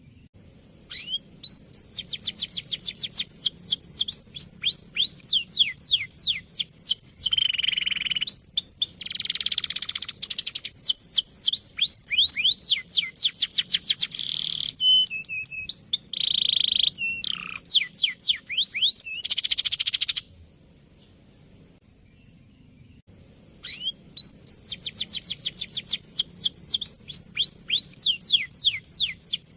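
Male canary singing a fast, rolling song: rapid trills of high notes that sweep downward, with buzzy stretches between. It breaks off for about three seconds about two-thirds of the way through, then starts again.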